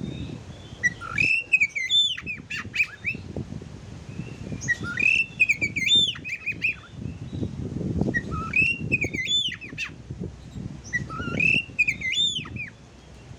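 Oriental magpie-robin (kacer) song: about four separate phrases of fast, varied whistled and warbled notes, roughly every three seconds, over a low background rumble.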